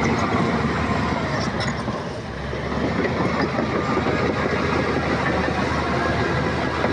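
Heavy earthmoving machine's diesel engine running under load with a continuous rattling clatter, dipping briefly about two seconds in and then building back up.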